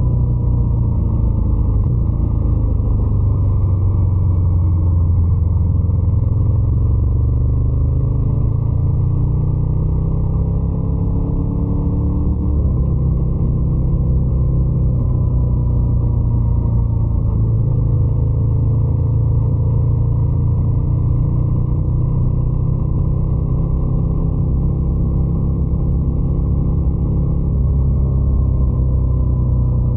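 Ducati Scrambler 800's air-cooled L-twin engine running steadily, its note rising and falling a little as the revs change.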